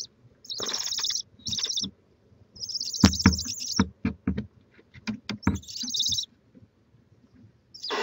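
Barn owls giving raspy hissing screeches in four bursts, each about half a second to a second long. Between the bursts comes a run of sharp knocks and thumps.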